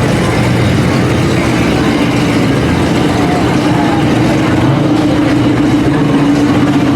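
Muscle car engines idling and rumbling as the cars creep past in a slow parade, with a steady low drone.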